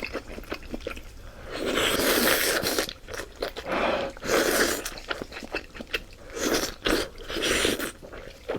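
Close-up mouth sounds of eating hotpot-cooked fatty beef slices: chewing with many small wet clicks, broken by four louder rushing noises, each under a second long.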